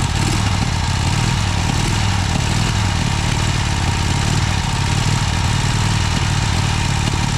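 Vincent Rapide Series C motorcycle's V-twin engine running steadily just after catching on a cold start, its first run after sitting for a month and a half.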